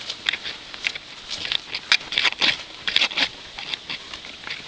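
Someone moving over dry dirt and debris: irregular rustling and crunching, with a few sharper cracks.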